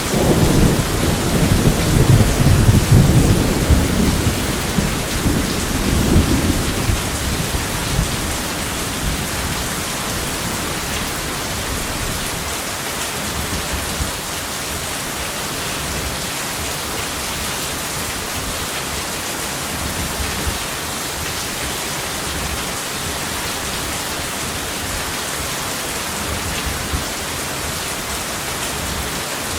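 Steady heavy rain with a rolling thunder rumble at the start that dies away over the first six or seven seconds.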